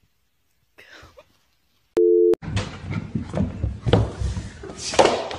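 A short electronic beep, one steady low tone about half a second long, about two seconds in. It is followed by loud, jumbled rustling and bumping noise with several sharp knocks.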